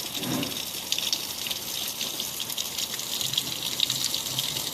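Steady rain falling: an even hiss of many small drop hits.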